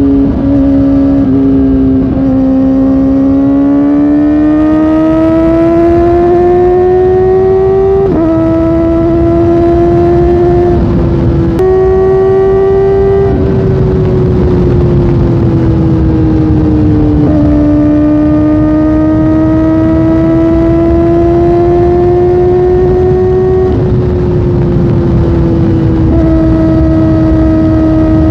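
Kawasaki Ninja ZX-4R's inline-four engine running at high revs under way. The pitch climbs under acceleration, drops sharply at upshifts, jumps up once and sags while rolling off, over steady wind rush.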